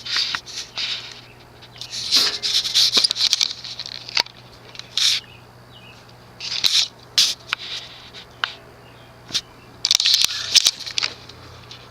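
Lasko Contemporary ceiling fan's open-ended spinner motor running on its low speed with a steady low hum. Irregular clicks and short scratchy rattles come through at uneven intervals.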